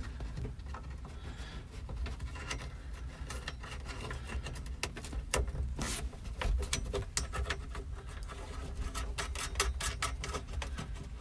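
Scattered clicks, taps and rubbing of parts and hand tools being handled while duct work is fitted, over a low steady rumble.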